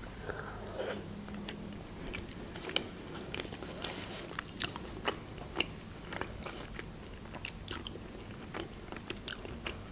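Close-up chewing of sliced beef tongue: soft wet mouth sounds with irregular, scattered sharp smacks and clicks.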